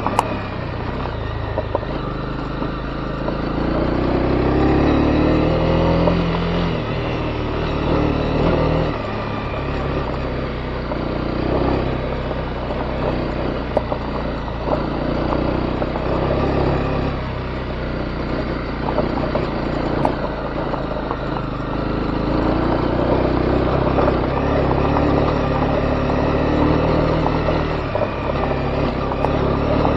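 Honda CB250R's single-cylinder engine running on a dirt road, its pitch rising and falling several times with the throttle, over a steady rush of tyre and road noise with a few sharp clicks.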